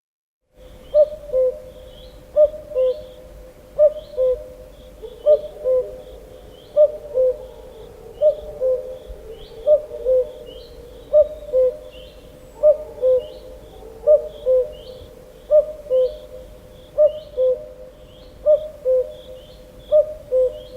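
Common cuckoo calling its two-note "cu-coo", a higher note falling to a lower one, over and over about every second and a half. Small birds chirp faintly behind it.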